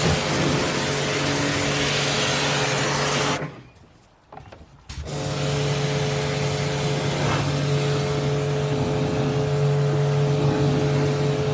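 Pressure washer running and spraying water onto boat carpet, with a steady motor hum under the hiss of the jet. It falls silent for about a second and a half a few seconds in, then starts spraying again.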